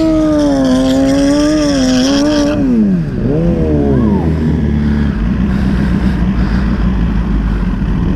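Sport motorcycle engine held at high revs, wavering, then the revs fall away about three seconds in with a couple of quick throttle blips. Then a steady low engine rumble.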